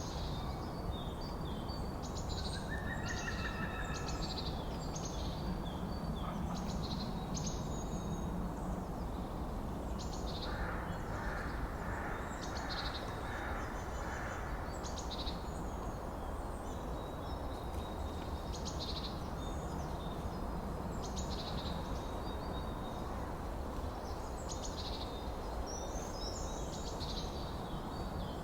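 Forest ambience: several birds calling, with short high chirps repeating every second or two and a run of about six evenly spaced lower notes near the middle, over a steady low background hiss.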